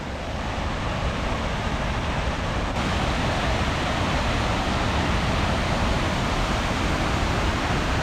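Steady rush of a waterfall's falling water: an even hiss with no separate events, a little brighter from about three seconds in.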